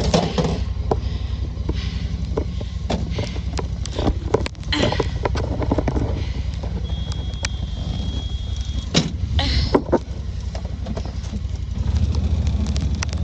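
A vehicle engine running steadily, with scattered clicks and knocks over it.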